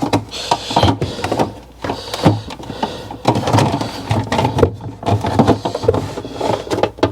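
Refrigerator parts being handled and fitted back into place: irregular clicks, knocks and rattles, over a steady low hum.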